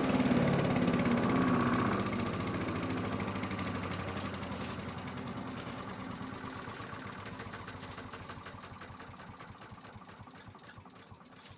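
Earthquake chipper-shredder's small gas engine running, then dropping off about two seconds in and winding down slowly, its pulsing thrum fading away over the following seconds.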